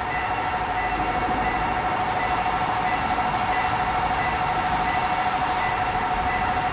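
Train passing over a level crossing, a steady rushing with a steady high-pitched tone held throughout. The crossing's warning signal sounds over it.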